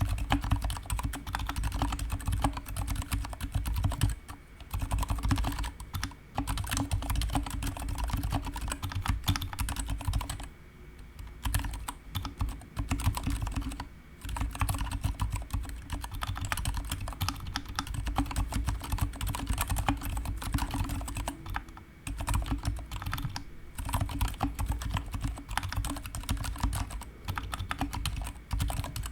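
Typing on a GK61 mechanical keyboard with stock, unlubricated Gateron silent brown switches and PBT pudding keycaps: a fast, continuous run of muted keystrokes, broken by a few short pauses.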